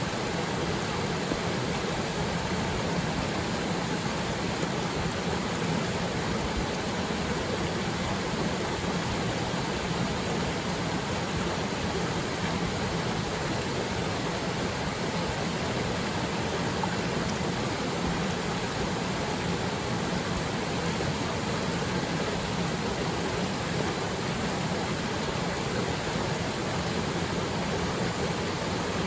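Waterfall pouring steadily into its plunge pool: an even, unbroken rush of falling water.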